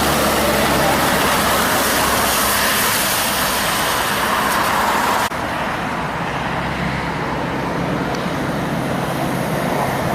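Heavy trucks passing on a highway: a steady roar of diesel engines and tyres. About halfway through it cuts abruptly to a slightly quieter, duller passing-traffic roar.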